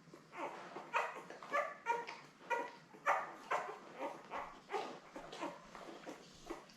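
Litter of ten-day-old Labrador retriever puppies squeaking and grunting while they jostle to nurse: a steady string of short, high little quacking calls, several a second.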